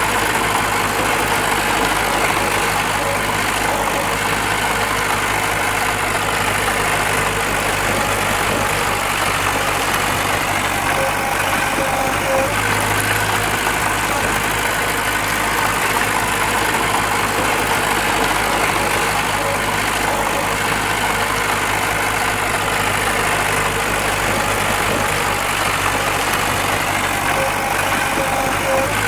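Diesel engine of a heavy earthmoving machine running steadily, with no change in level.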